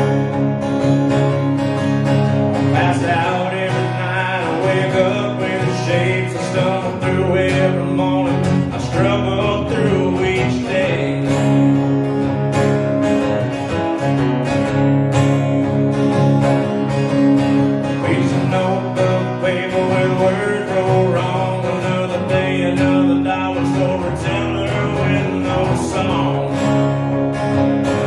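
Acoustic guitar music: an instrumental passage of a song with steady strummed and picked guitar.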